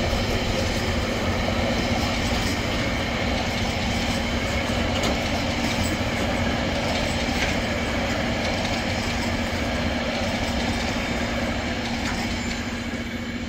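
Tail end of a freight train's empty container flat wagons rolling past, steel wheels running on the rails with scattered clicks and a steady hum underneath. The noise fades near the end as the last wagon goes by.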